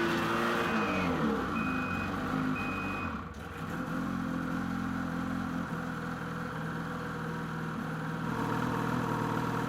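Ski-Doo 600 H.O. E-TEC two-stroke snowmobile engine running, its pitch falling as it slows over the first couple of seconds, with a short electronic beep repeating about every three-quarters of a second, the warning that the sled is in reverse. The beeping stops about three seconds in, and the engine then idles steadily.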